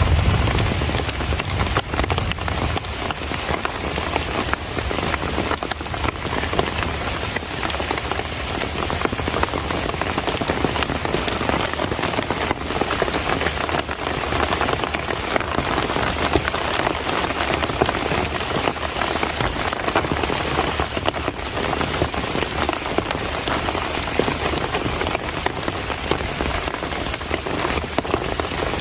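Steady heavy monsoon rain falling on surfaces, with a constant hiss and many individual drop hits.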